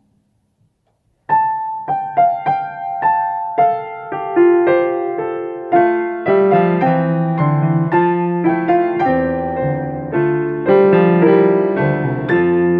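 Piano duet played four hands. After about a second of silence a single-line melody in the upper register begins, and from about halfway through lower chords and a deep bass line fill in beneath it.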